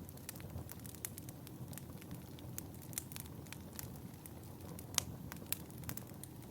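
Wood fire burning in a fireplace, crackling and popping at irregular intervals over a low rumble of flames, with one sharper pop about five seconds in.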